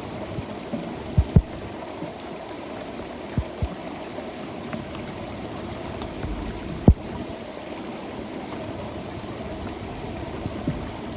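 Floodwater running steadily into a street storm drain, with a few short dull thumps scattered through it and a sharper one near the middle.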